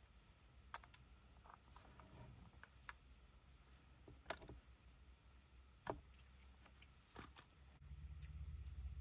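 Faint, scattered small clicks and taps of hand tools on phone parts during a screen repair, about seven in all. A low hum comes in near the end.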